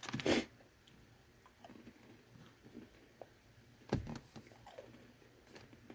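Chewing a crunchy nut bar made of crushed nut pieces: two louder crunches, one right at the start and one about four seconds in, with quiet crunching and small clicks between them.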